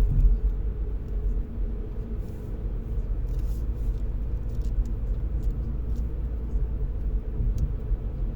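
Steady low rumble of a car driving along, its engine and tyre noise running evenly.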